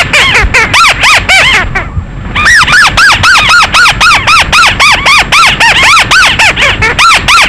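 Bird call file of the bird known in Vietnam as 'mắt xéo' (chim chuột), used as a lure for night trapping. It is a loud string of short, squeaky notes that each rise and fall in pitch, repeated about three times a second, with a brief pause about two seconds in.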